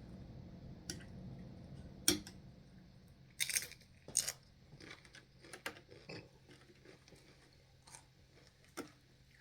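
Close-miked eating sounds: nachos being bitten and chewed, with a sharp click about two seconds in, two crisp crunches a little later, and softer mouth clicks after that.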